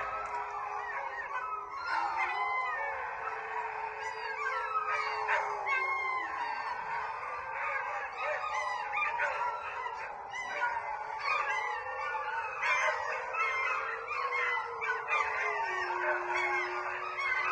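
Sled dogs howling and yelping together in a chorus of many overlapping calls, with one long low howl that slides down in pitch about six seconds in and again near the end.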